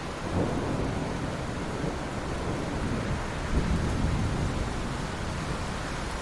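Steady rain hissing onto ocean water, with a low rumble that swells about half a second in and again around three and a half seconds.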